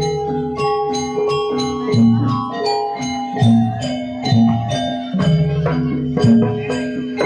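Gamelan-style music: metallophones struck in a quick, steady pattern of ringing notes, with deeper sustained tones beneath.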